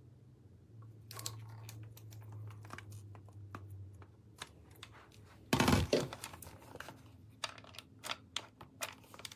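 Packaging and plastic parts being handled: faint crinkling and tearing, one loud thump about halfway through, then a quick run of sharp clicks.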